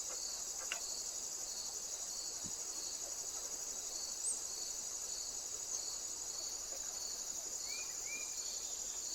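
Crickets chirring in a steady high trill, with a lower chirp pulsing a little under twice a second. There is a brief faint chirp near the middle and two short rising notes near the end.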